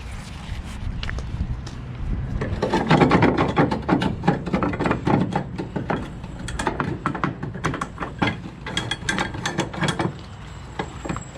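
A run of irregular metallic rattling and clicking over a low rumble, starting a couple of seconds in and dying away near the end.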